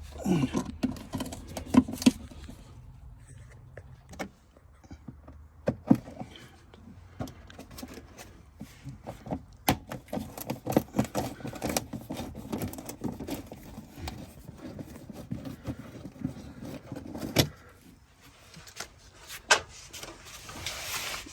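Scattered clicks and rattles of a T20 Torx driver undoing the screws that hold a Porsche 911 997's plastic wheel-arch liner, with a dense run of clicking through the middle.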